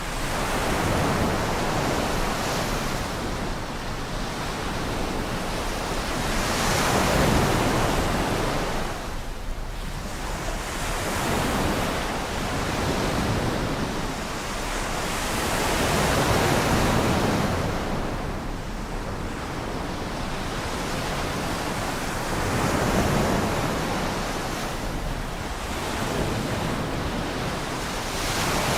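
Sea waves washing in and drawing back, the rush swelling and easing every four to six seconds, with some wind.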